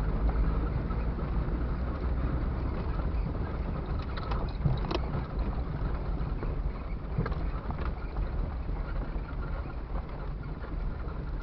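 A steady low rumble that slowly gets quieter.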